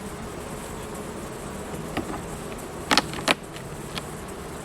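Honeybees buzzing steadily around an open hive. Two sharp clicks about three seconds in, with fainter ones around them, come from the hive tool working at frames the bees have glued together with propolis.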